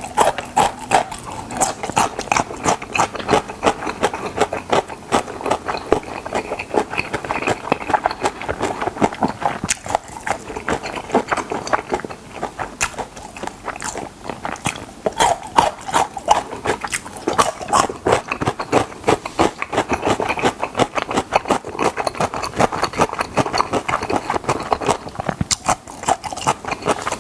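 A person chewing and biting chicken drumsticks close to the microphone: a dense, continuous run of small crunches and mouth clicks.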